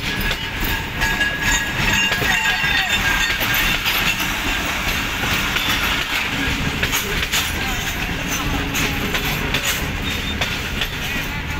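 Pakistan Railways Tezgam Express passenger coaches rolling past at the platform as the train pulls into the station. The steel wheels clatter in a steady stream of clicks over the rail joints, over a continuous rumble.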